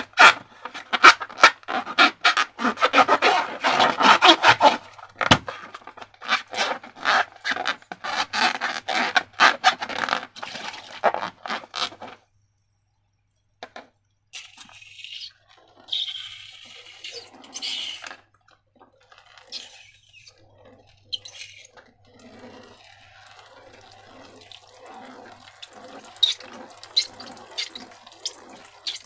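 Wet, sticky slime squished and worked by hand, with a dense run of crackling, popping clicks. After about twelve seconds the sound cuts out for a moment, then comes back as quieter, sparser squelches and drips.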